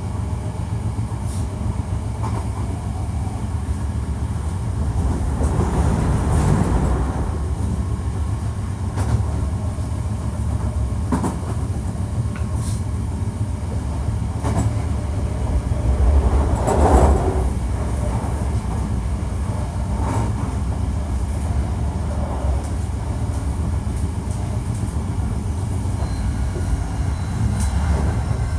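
Hankyu 1300 series electric train running between stations: a steady rumble of wheels on track with scattered rail clicks, and two louder swells about six and seventeen seconds in.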